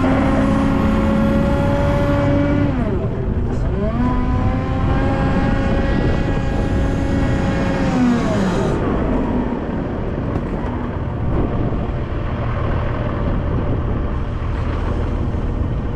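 Volvo L90F wheel loader's six-cylinder diesel running at high revs. It drops off about three seconds in, revs back up a second later and holds, then falls away about eight seconds in to a lower, steady rumble.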